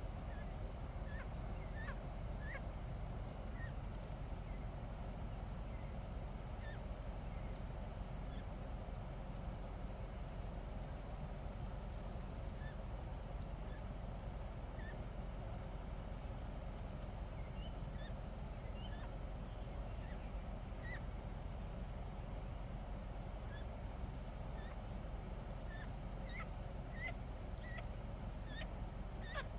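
Small birds calling: a short, high-pitched call repeats every few seconds, six times, with fainter chirps in between, over a steady low background noise.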